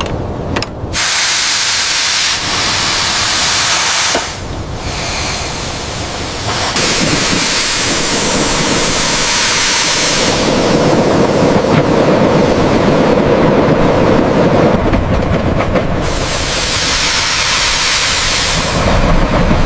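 Loud hissing rush of noise that changes abruptly several times, about a second, four, seven, ten and sixteen seconds in.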